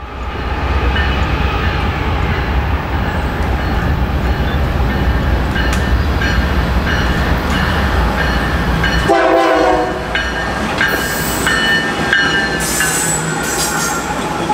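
Freight train headed by several diesel locomotives approaching and passing close by, with a heavy engine rumble. A brief horn blast sounds about nine seconds in. High wheel squeal and rail noise follow as the locomotives go by.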